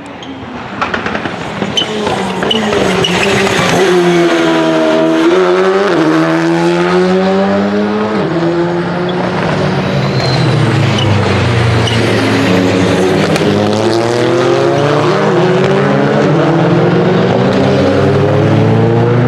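Rally car engine at high revs on track: the pitch climbs, drops sharply about six seconds in, sinks further, then climbs again near the end as the car accelerates once more.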